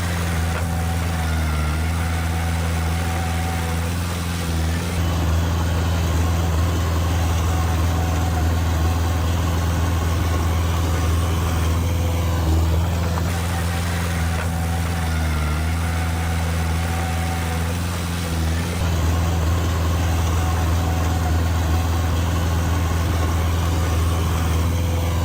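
Bulldozer's diesel engine running steadily, its note shifting slightly every several seconds as the machine works.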